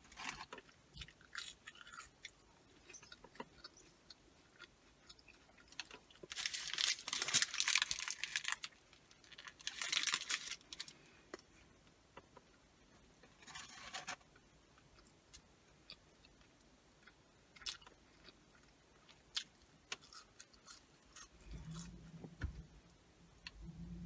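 A person chewing fast food close to the microphone: wet mouth clicks and several crunchy bites, the longest about six to eight seconds in. Near the end a large truck's engine starts a low, steady rumble underneath.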